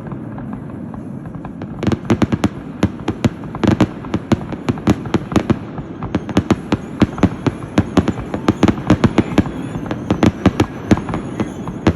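Fireworks grand finale: after a lingering rumble, a rapid, dense string of sharp bangs starts about two seconds in and runs on at several bursts a second.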